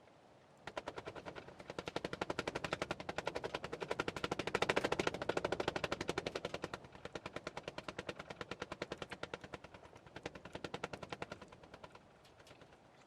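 Wood fire crackling in a fast, dense run of sharp pops that starts suddenly, swells to its loudest midway and dies away near the end.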